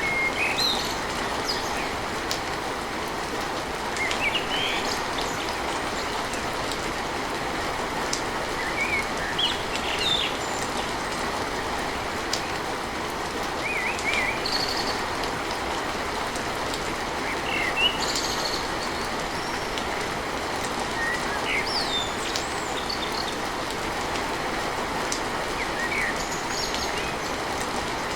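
Steady heavy rain drumming on a tin roof, with birds giving short chirps every few seconds.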